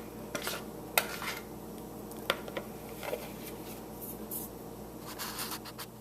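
Spatula or spoon scraping brownie batter from a mixing bowl into a metal baking pan and spreading it, with light scrapes and scattered clinks against the pan and bowl.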